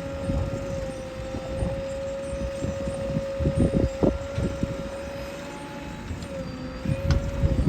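JCB 3DX backhoe loader working, its engine and hydraulics giving a steady high whine over a low rumble, with a few knocks and clanks around the middle and near the end.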